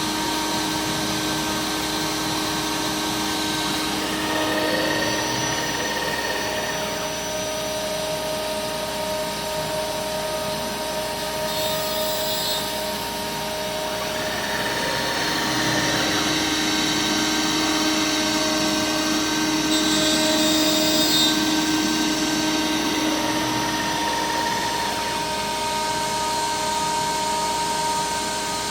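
MillRight Power Route Plus XL CNC router cutting aluminum composite panel: the spindle runs with a steady whine while the stepper-driven axes hum. Their tones change pitch about four, fifteen and twenty-five seconds in as the machine changes moves.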